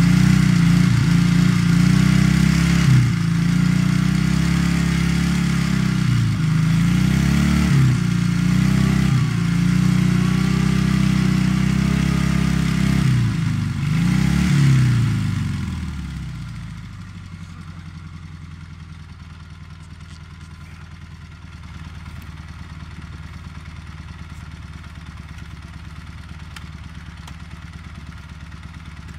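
Soviet sidecar motorcycle's flat-twin engine revved hard in repeated surges as the rig is driven against deep snow it is stuck in, then dropping to a steady idle about halfway through.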